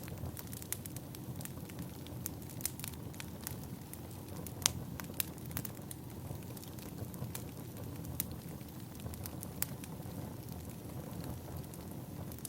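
Wood fire crackling: a steady low rumble of burning logs with irregular sharp pops and snaps, one louder pop about halfway through.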